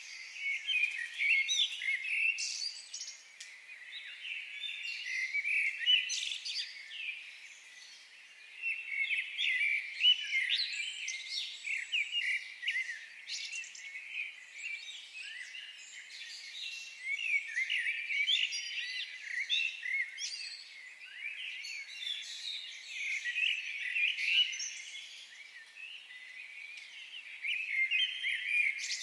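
Many small birds singing and chirping at once, a dense chorus of overlapping high chirps and trills with no low sounds beneath.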